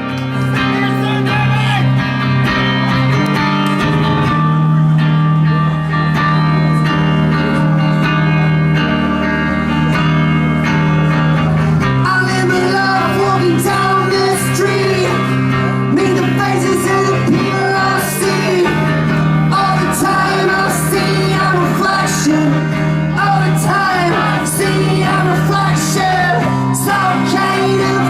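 Live rock band playing a song: sustained electric guitar chords, with singing coming in partway through.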